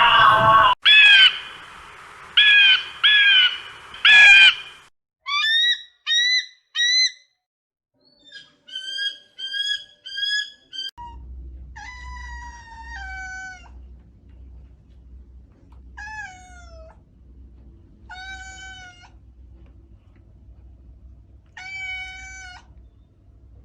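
Kitten meowing: groups of short, high mews, then from about eleven seconds in longer meows that fall in pitch, over a low background hum.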